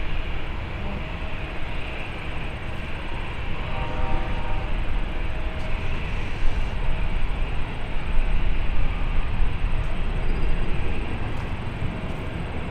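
Jet aircraft engine noise at an airport: a steady, fairly loud rumble, heaviest in the low end, with faint steady engine whines above it.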